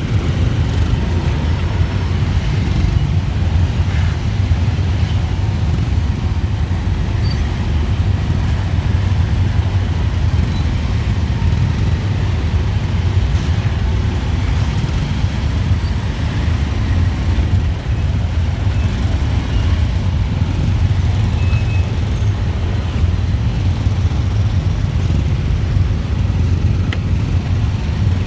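Dense rush-hour street traffic of motorbikes, cars and tuk-tuks: a steady, unbroken low rumble of many engines.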